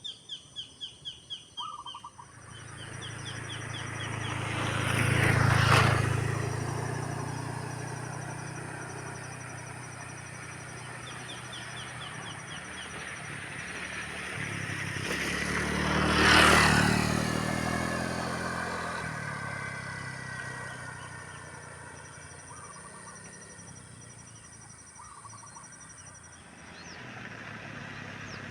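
Two motor vehicles passing by one after the other, each swelling up and fading away, the loudest moments about 6 and 16 seconds in, the second dropping in pitch as it goes past. In the first two seconds a bird gives a quick run of chirps.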